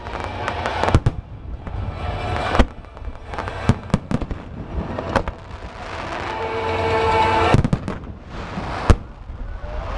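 Aerial fireworks bursting: a string of sharp bangs at uneven intervals, some in quick clusters, with crackling between them. The loudest bangs come about two and a half seconds in and near the end.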